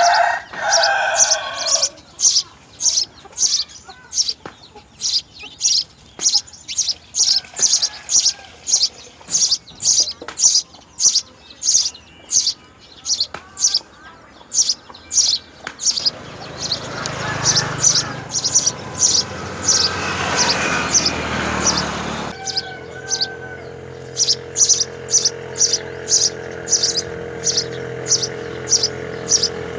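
A small bird chirping repeatedly, short high chirps about twice a second. A rushing noise swells in the middle, and a steady low hum comes in about two-thirds of the way through.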